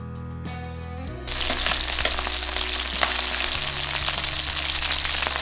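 Starch-coated chicken pieces frying in hot oil in a pan: a loud, dense crackling sizzle that starts suddenly about a second in, over background music.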